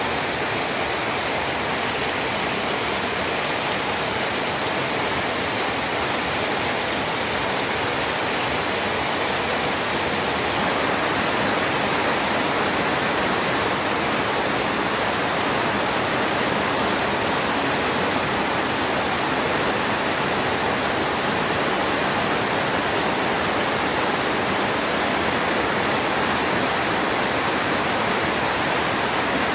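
Heavy rain falling steadily at night, a dense even hiss that grows slightly louder about ten seconds in.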